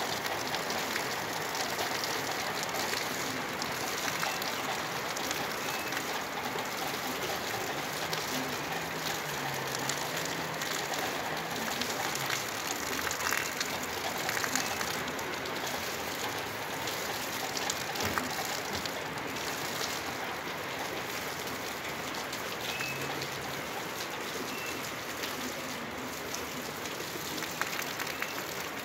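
Steady rain falling during a thunderstorm, an even hiss without letup.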